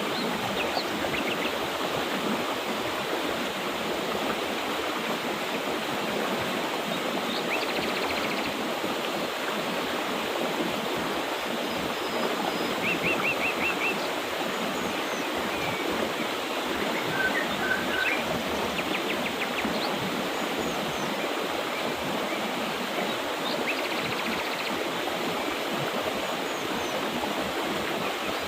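Mountain river water rushing steadily, with short bursts of bird chirping now and then.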